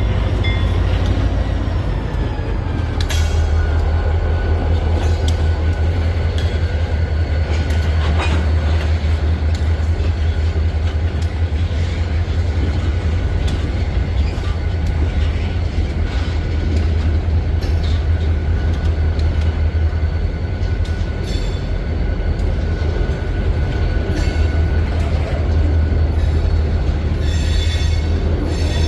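Freight train rolling slowly along an industrial spur, with a steady low rumble. A thin, steady high squeal from the wheels runs through most of it, and now and then a sharp clank.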